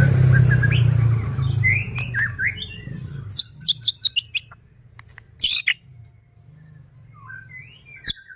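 White-rumped shama (murai batu) singing a rapid string of sharp, high whistled notes mixed with dry clicking rattles. A low steady hum underlies the first three seconds, then fades.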